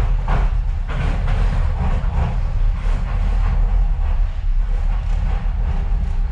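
Docklands Light Railway train running, heard from inside the carriage: a loud, steady low rumble of wheels on rails, with irregular clatter throughout.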